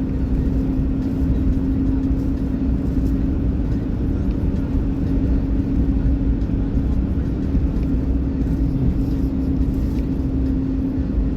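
Steady road and engine noise heard from inside a moving car's cabin: a low rumble with a constant drone.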